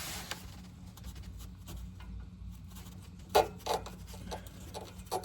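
A few light clicks and knocks from an exhaust hanger removal tool being worked onto a rubber exhaust hanger, with a low steady hum underneath. Two come close together about three and a half seconds in, and another near the end.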